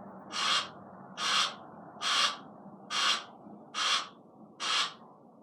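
Barn owl hissing in a steady series, seven harsh hisses about one every 0.8 s, stopping shortly before the end.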